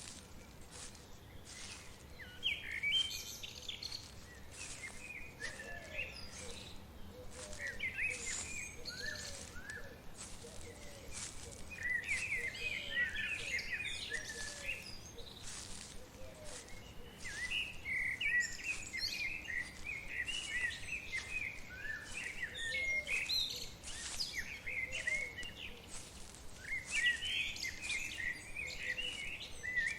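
Several songbirds chirping and singing in a forest, in overlapping bursts of quick high notes that are busiest about twelve seconds in and near the end. Fainter, lower calls repeat underneath, over a soft steady background hiss.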